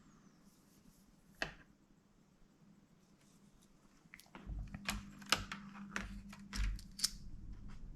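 Clicks and taps from a laptop's plastic case and parts being handled and worked on during disassembly. A single click comes about a second and a half in, then past the halfway point an irregular run of clicks and knocks over a low steady hum.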